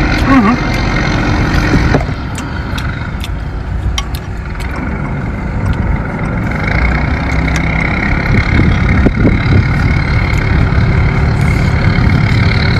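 Boat engine running steadily, with scattered small clicks over it.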